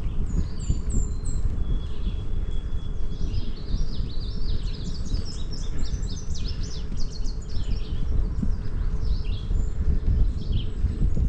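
Songbirds chirping and singing in the trees beside the trail, with a dense run of rapid chirps in the middle and a held whistle before it. Beneath them is a steady low rumble from the moving bicycle, its tyres on asphalt and wind on the microphone.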